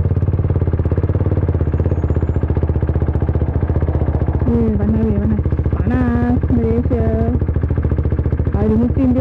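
Sport motorcycle's engine running at low speed with a steady, even throb, heard from the bike itself. From about halfway through, a woman's voice comes in several times over it.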